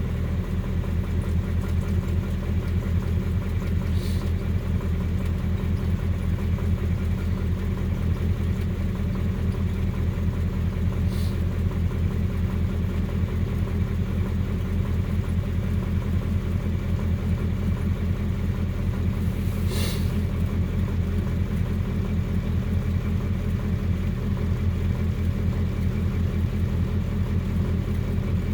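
Nissan 720 pickup engine idling steadily while warming up after a cold start, with an even, rumbling firing beat. Three brief faint high-pitched sounds break in, the last and plainest about two-thirds of the way through.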